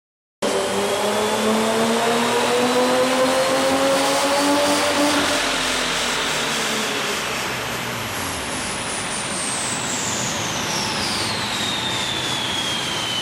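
Supercharged V6 engine revving: it comes in suddenly, climbs in pitch for about five seconds, then falls away. A high whine drops steadily in pitch as the revs come down.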